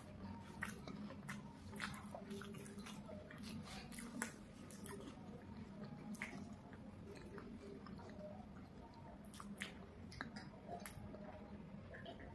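Faint chewing of chocolate bars, with scattered soft clicks and smacks throughout.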